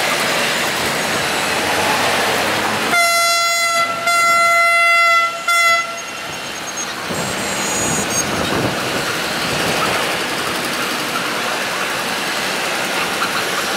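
Diesel locomotive of an intercity passenger train hauling its coaches round a curve, with a steady rumble of engine and wheels. About three seconds in, the locomotive's horn sounds one long blast, breaks off briefly, then gives a short final note.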